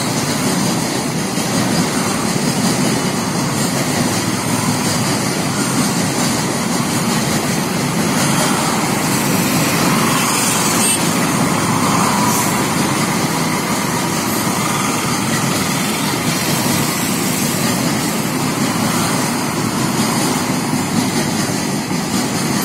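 Indian Railways goods train of loaded open coal wagons rolling past, a loud, steady running noise of wheels on rails with no clear beat.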